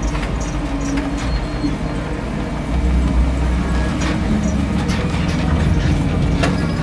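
A car driving slowly up and pulling in, its engine running steadily, with bass-heavy background music.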